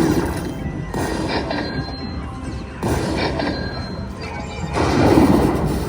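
Slot machine sound effects: electronic music with crashing effects as the reels spin, changing abruptly every second or two and loudest near the end.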